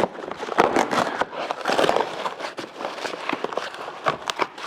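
Cardboard shipping box being opened and handled: irregular rustling, crinkling and sharp clicks of cardboard and packing material.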